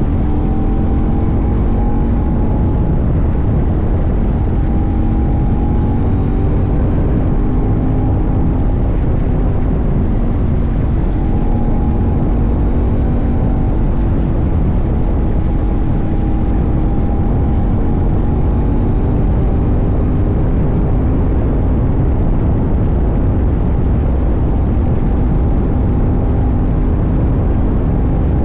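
CFMoto 800NK's parallel-twin engine running at a fairly steady cruise under way, its pitch drifting only slightly, over a heavy rush of wind and road noise on the tank-mounted camera.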